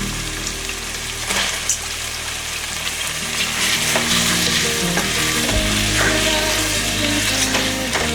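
Food frying and sizzling in a pan, with occasional clicks of stirring; the sizzle grows louder about three seconds in. Soft background music plays underneath.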